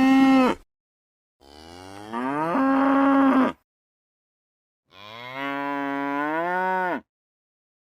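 Cow mooing: three long calls, each rising in pitch, with short silences between them.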